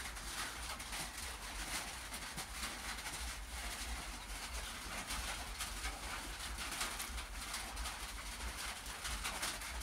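Steady rain falling on a roof: an even hiss made up of many small drop ticks over a low rumble.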